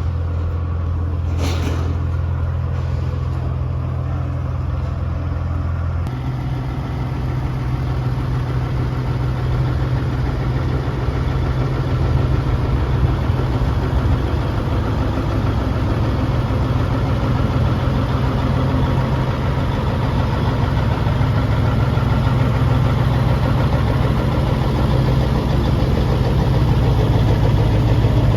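Vehicle engine running steadily. Its low drone changes pitch about six seconds in and then slowly grows louder, with a brief sharp noise near the start.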